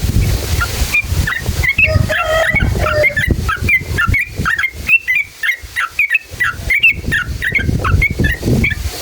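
Yellow-vented bulbul (trucukan) singing a long, fast run of short chirps, several a second, starting about a second in. A low rumbling hiss lies underneath.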